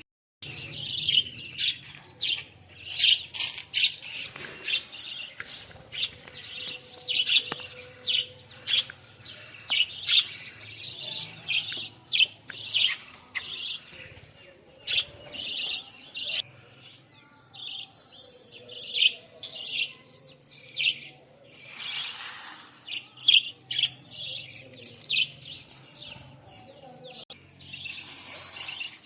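A group of budgerigars ("Australian parrots") chattering, with a steady stream of quick, high chirps.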